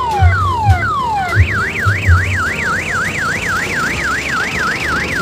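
Electronic siren of a mini tourist train. It sounds a falling tone over and over, about twice a second, then a little over a second in switches to a fast rising-and-falling warble. Irregular low thumps sound underneath during the first two seconds or so.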